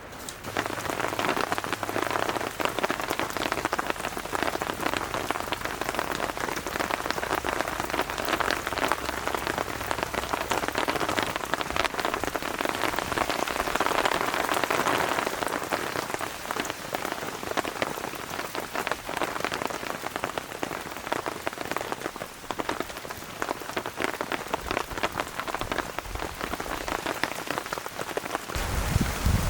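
Steady rain falling, a dense hiss made of many small drop hits.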